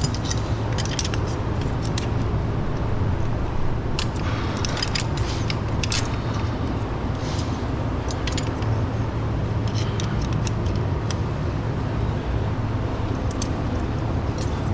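Scattered light metallic clicks and clinks of hand tools (wrench, Allen key and feeler gauge) on the valve rocker adjusters of a Caterpillar C11 diesel engine while the valve lash is set, over a steady low hum.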